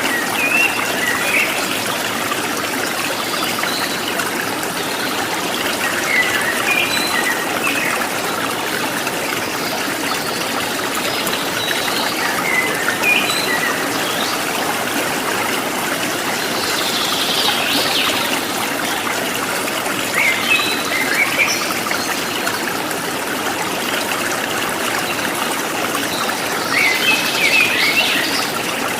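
A stream running and trickling steadily, with birds chirping in short bursts now and then over it.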